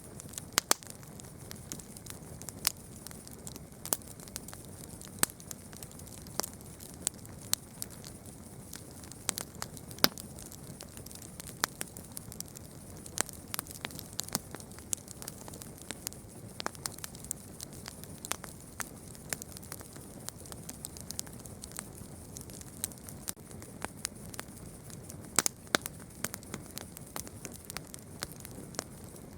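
Campfire burning with irregular sharp crackles and pops over a steady low hiss.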